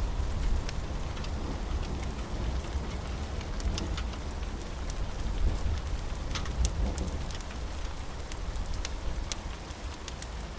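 Steady rain with a low rumble underneath and scattered sharp ticks and crackles on top.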